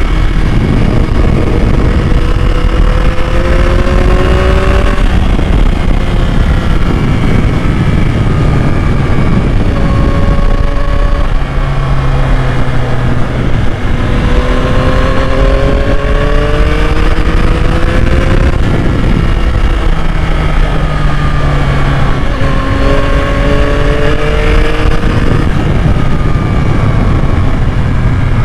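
A 2021 Yamaha MT-09's inline three-cylinder engine is pulling through the gears while riding. The pitch climbs in each gear and drops back at each shift, several times over, beneath a heavy low rumble of wind and road noise.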